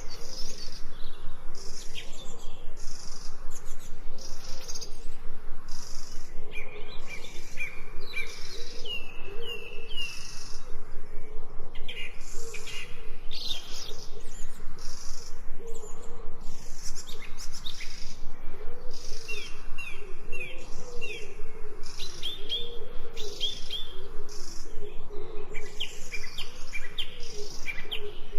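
Birds chirping and singing: a high chirp repeating evenly two to three times a second, runs of quick falling notes, and a low wavering call repeating underneath.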